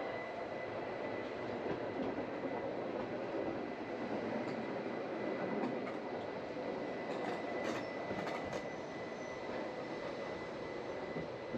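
A narrow-gauge Bernese Oberland Railway train running along the track: a steady rumble of wheels on rails with a thin, steady high whine, and a few light clicks about seven to eight seconds in.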